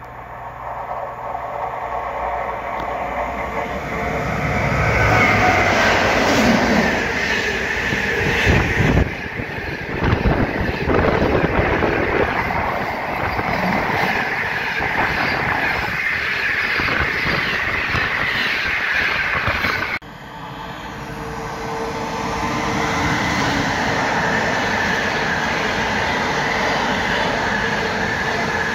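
Freight trains passing at line speed. First a locomotive approaches and passes, growing louder over about five seconds, followed by container flat wagons rolling past continuously. About two-thirds of the way through the sound cuts to another intermodal container train whose wagons roll past steadily.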